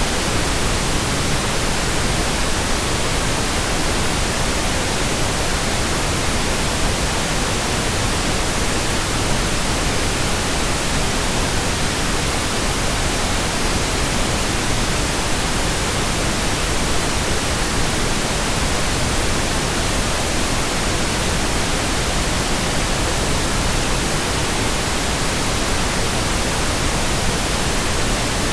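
Steady synthetic white noise: an even hiss across the whole range, with no change in level or pitch.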